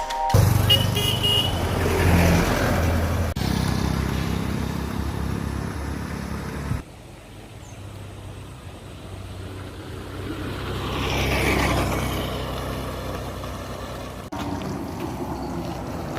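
Road traffic: motor vehicles running and passing, with a short horn toot about a second in and one vehicle passing close near the two-thirds point. The sound changes abruptly several times.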